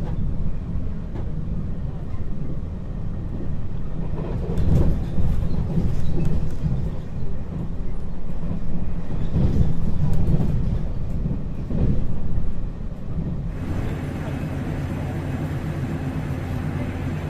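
A train running on the rails: a low rumble with irregular clattering knocks. About fourteen seconds in it gives way to a steadier, more even hum.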